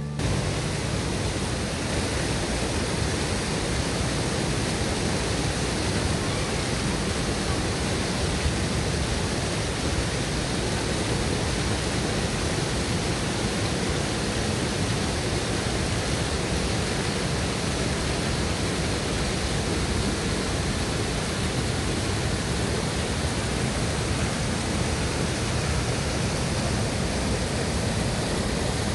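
Bomburu Ella, a wide waterfall, with its water falling and rushing in a steady, even noise that never changes.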